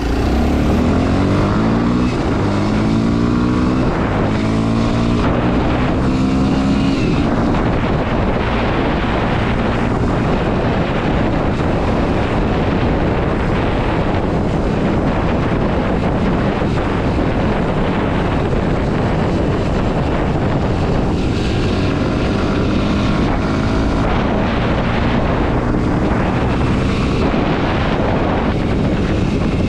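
Kawasaki KLX 230 SM's single-cylinder engine pulling hard through several gears, its pitch climbing and dropping back at each shift, then wind rushing loudly over the microphone at speed. About twenty seconds in, the engine climbs through another run of upshifts.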